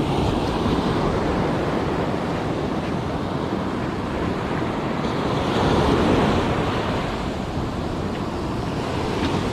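Ocean surf washing onto the beach, with wind buffeting the microphone; the wash swells briefly about six seconds in.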